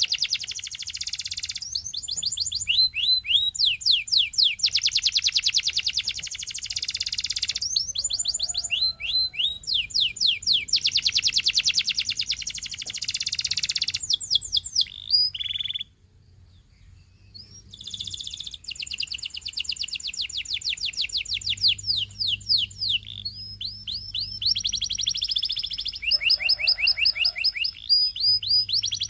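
Canary singing a long song of rapid trills: runs of fast repeated notes that change to a new pattern every few seconds, with a brief pause about sixteen seconds in.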